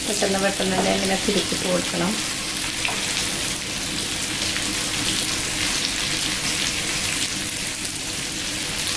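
Potato tikka pieces and capsicum sizzling in oil in a nonstick frying pan, turned now and then with a wooden spatula, the pieces nearly fried through and browned. A pitched, voice-like sound lies over the sizzle for the first two seconds.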